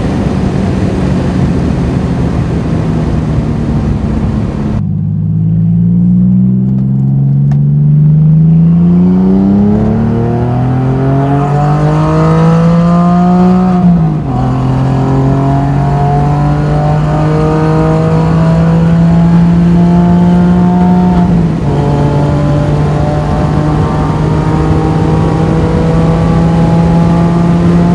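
Porsche 911 (996) Carrera 4 flat-six engine and exhaust with the catalytic converters removed, heard from inside the cabin. It runs steadily, then the revs climb evenly for about nine seconds until a gear change about fourteen seconds in drops them. After that it runs steadily again.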